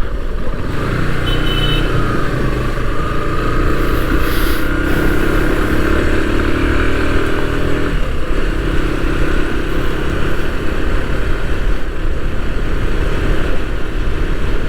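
Bajaj Pulsar NS160's single-cylinder engine running under way, heard from the rider's position with wind rumble. Its pitch climbs slowly over several seconds, then drops suddenly about eight seconds in.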